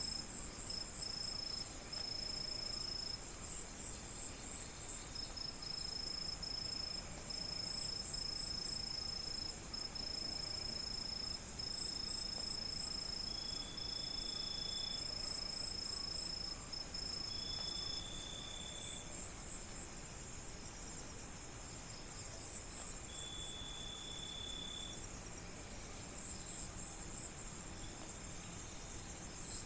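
Night chorus of crickets and other insects trilling. One high, steady trill drops out about two-thirds of the way through. A lower trill repeats in short phrases every few seconds over a fainter shimmering chorus.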